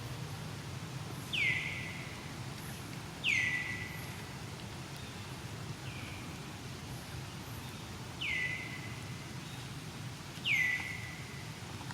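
A bird calling five times, each call a short note that slides down in pitch, with faint high chirps and a steady low rumble behind.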